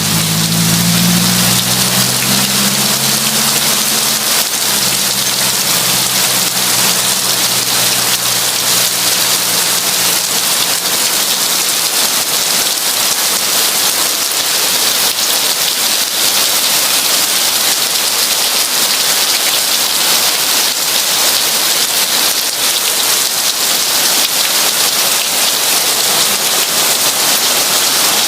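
Heavy rain falling in a steady, even hiss. A low rumble fades away over the first ten seconds or so.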